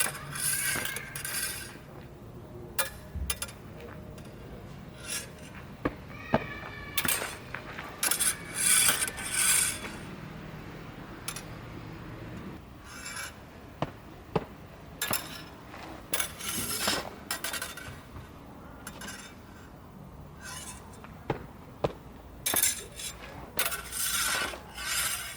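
Practice smallsword blades clinking and scraping against each other in a fencing drill: sharp ticks of blade contact, scattered irregularly, and several longer hissing slides of steel along steel.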